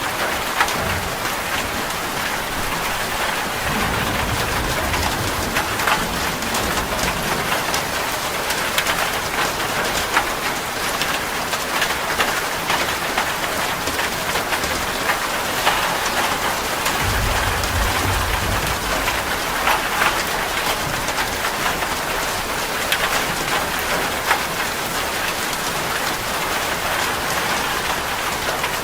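Heavy rain falling on a metal roof, a steady hiss full of sharp drop ticks, with low rumbles of thunder twice, a few seconds in and again past the middle.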